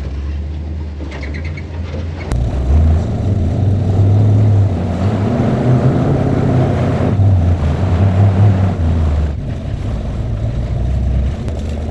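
Off-road tow truck's engine driving under load. It gets louder about two seconds in, stays loud for several seconds, and eases off toward the end.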